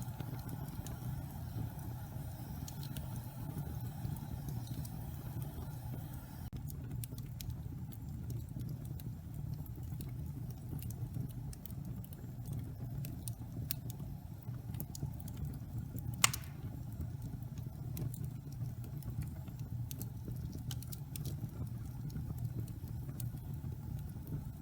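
Wood fire burning in a fireplace: a steady low rumble with scattered crisp crackles and one loud pop about two-thirds of the way in.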